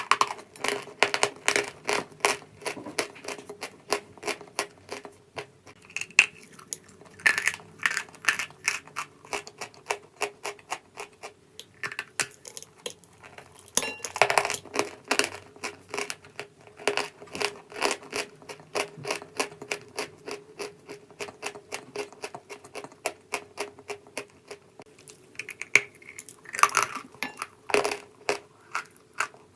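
Crunchy chalky block being crushed and crumbled close to the microphone: a dense run of sharp crackles and clicks, with a few louder crunches about halfway through and again near the end.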